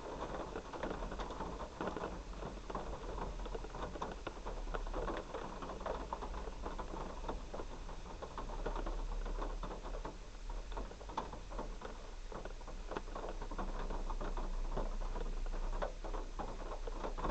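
Heavy rain falling, a dense, uneven patter of drops throughout.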